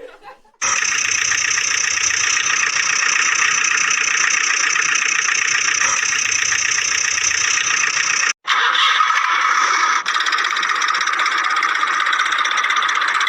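Steady engine-like running sound for a mini tractor. It starts abruptly just under a second in, cuts out for a moment about eight seconds in, and comes back with a different tone.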